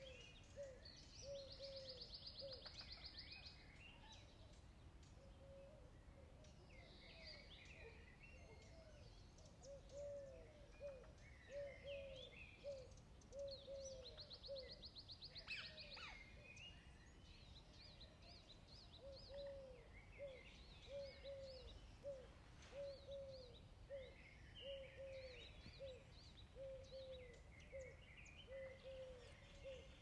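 Faint small birds chirping, with a fast trill about a second in and again past the middle, over a soft low note repeated about once a second that pauses briefly just past the middle.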